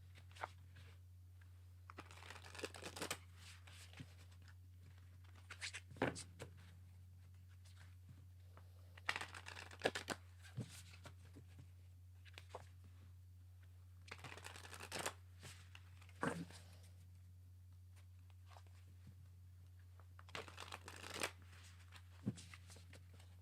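Tarot cards being shuffled and handled, in several short bursts of papery shuffling and sliding with small taps between them, over a steady low hum.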